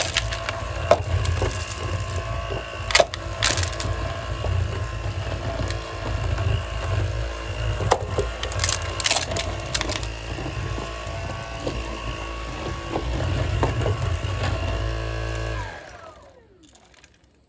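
Stick vacuum running on its lowest power setting over carpet, with sharp clicks and rattles of small pebbles against it; the setting is too weak to suck the pebbles up. About 16 seconds in the motor is switched off and winds down with a falling whine.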